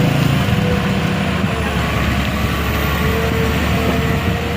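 A truck engine running steadily and loudly, its low note dropping to a deeper drone about a second and a half in.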